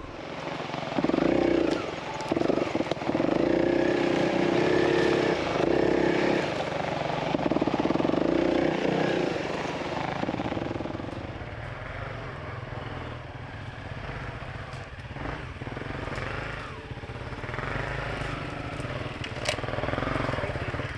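Honda CRF300L single-cylinder four-stroke motorcycle engine running on a slow trail ride, the throttle opening and closing unevenly. It is louder through the first half and eases to a lower, steadier running in the second half.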